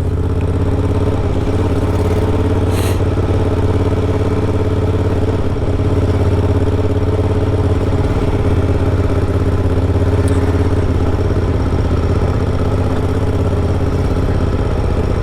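Moto Guzzi Griso 1200's transverse V-twin engine running at an even pace while the bike is ridden, its drone holding a steady pitch.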